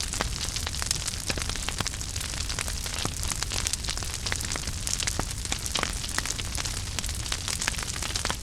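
Wood fire in a fireplace burning steadily, with frequent sharp crackles and pops over a low rumbling hiss of the flames.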